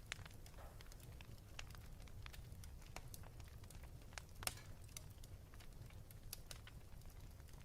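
Wood fire in a fireplace crackling, with irregular sharp pops (the loudest about four and a half seconds in) over a low steady rumble.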